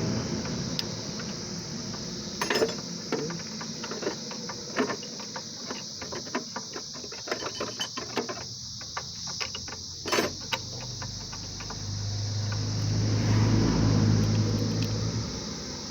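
Metal parts and tools clinking and tapping in a run of short, irregular clicks. Near the end a steady low machine hum rises for a few seconds, then fades.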